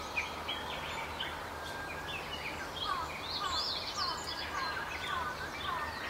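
Several songbirds chirping and calling, with a run of short downward-sweeping notes repeated about twice a second in the second half, over a steady low hum.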